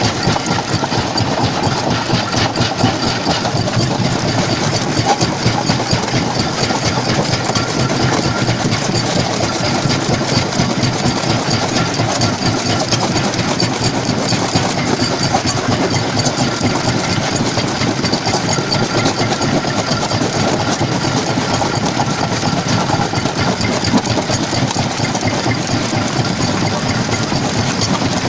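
Stone jaw crusher running steadily: a loud, continuous mechanical clatter with a fast pulse, unbroken for the whole stretch.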